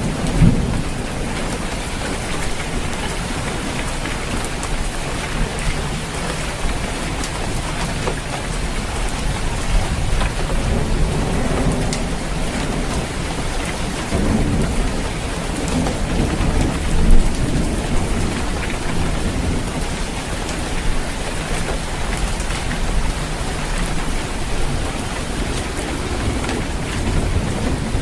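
Steady heavy rain falling on a roof, with scattered drops striking and low thunder rumbles swelling up a few times.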